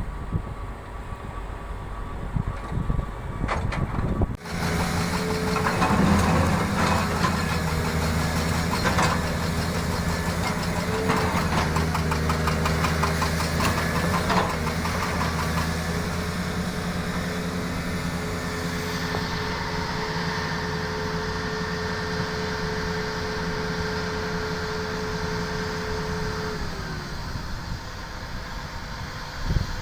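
An engine comes on suddenly about four seconds in and runs steadily, then winds down a few seconds before the end.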